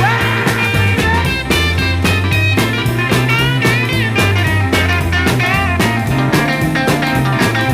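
Instrumental break of a 1964 British rock and roll band recording: electric lead guitar playing bent notes over a walking bass line and a steady drum beat, with no vocals.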